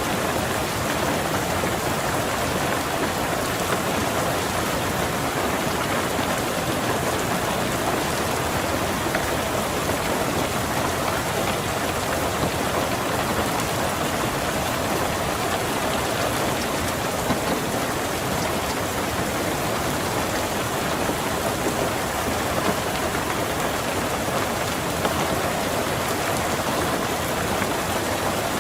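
Steady heavy rain drumming on a car's roof and windows, a dense, even patter heard from inside the car.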